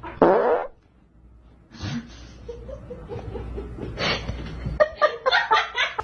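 A person laughing, in quick repeated bursts toward the end, after a brief loud burst of sound right at the start.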